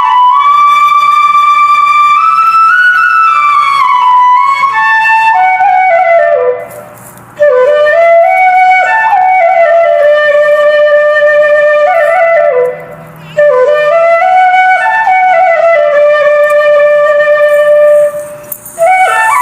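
Solo flute playing a slow melody, in phrases that wander up and down and settle on long held notes, with brief pauses for breath between phrases.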